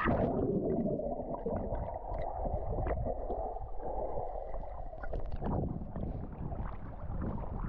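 Water churning and gurgling around a swimmer diving into the sea, heard muffled and dull through a submerged GoPro, with scattered small clicks and bubble pops.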